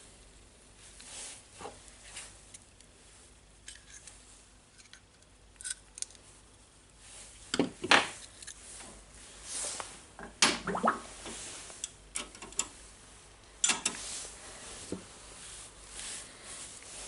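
Parts of a disassembled rotary hammer drill being handled and worked on: scattered clicks, knocks and short scrapes, with the loudest about eight, ten and a half and fourteen seconds in.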